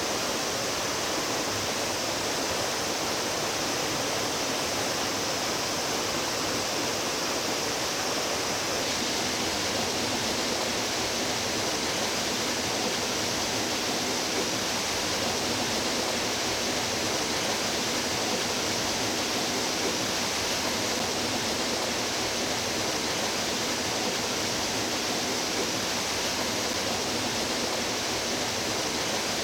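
Mountain stream rushing steadily over rocks, a continuous even wash of flowing water.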